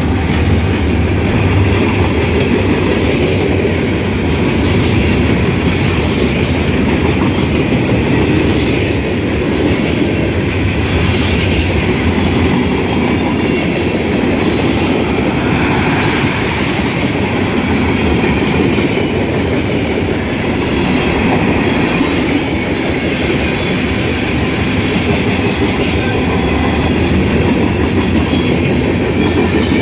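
Freight cars rolling past at close range: a loud, steady rumble of steel wheels on the rails, with wheels clacking over the rail joints. The trailing diesel locomotive's low engine drone fades out in the first second.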